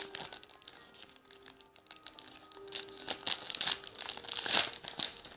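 Foil Yu-Gi-Oh booster pack wrapper crinkling and tearing as it is opened by hand, in a run of irregular crackles that grow louder about three to five seconds in.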